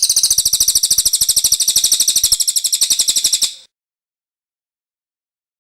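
Cililin songbird giving a very high, rapid trill of about a dozen notes a second, lasting about three and a half seconds and then stopping abruptly.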